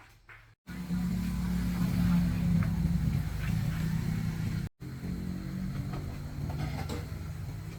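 Engine of an old car rebuilt as a small pickup truck, running steadily at low revs. It starts abruptly under a second in and drops out for a moment just past the halfway point.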